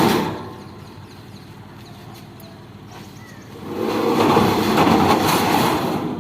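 Tracked harvester's engine running, with a sharp knock at the start and a loud, noisy swell about four seconds in that lasts roughly two seconds before easing off.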